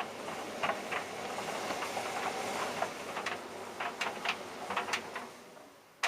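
Tumble dryer running with a load of jeans: a steady whoosh of the turning drum with irregular clacks as buttons and zips hit the drum. The sound fades away near the end.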